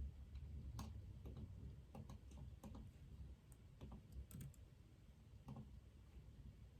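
Faint computer keyboard typing: scattered keystrokes at an irregular pace, heard over a low steady room hum.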